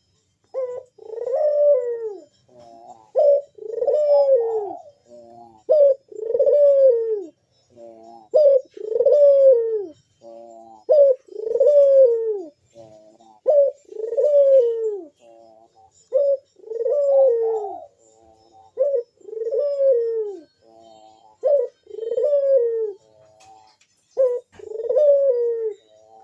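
Barbary dove (burung puter) cooing over and over: about every two and a half seconds comes a drawn-out coo that rises and then falls away, with short clipped notes between. It is the persistent song of a bird in breeding condition, used as a lure call.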